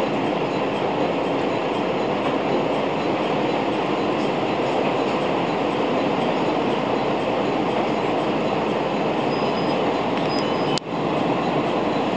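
Diesel railcar heard from inside the passenger cabin: steady engine and wheel-on-rail running noise as it rolls alongside a station platform. A brief high whine and a sharp click come near the end.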